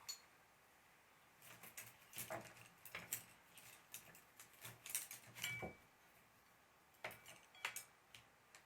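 Light clinking and tapping of small hard objects, like painting tools being handled: a run of quick clinks over about four seconds, a pause, then a few more.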